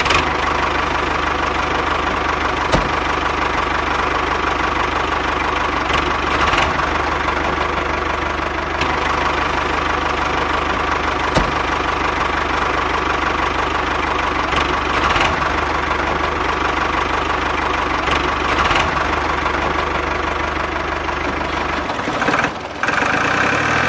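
Small motor running steadily with a constant whine, a few sharp clicks along the way.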